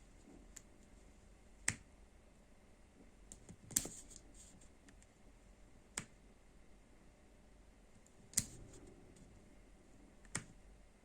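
Five sharp, separate clicks about two seconds apart, with faint room hiss between them: a small push button being pressed again and again.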